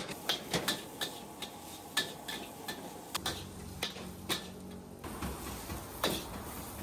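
Irregular sharp clinks and clicks of dishes, glasses and cutlery being handled, some with a short ringing tone. A low steady hum runs under them for a couple of seconds midway.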